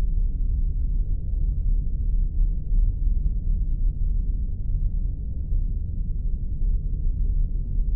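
Spaceship sound effect: a steady, deep rumbling drone with no higher tones, and faint scattered crackles above it.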